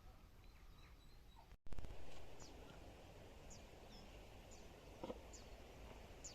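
A small bird calling over outdoor ambience: short, high, falling chirps repeated about once a second, over a steady low rumble. About one and a half seconds in, the sound briefly drops out, then a louder burst of noise comes back and fades.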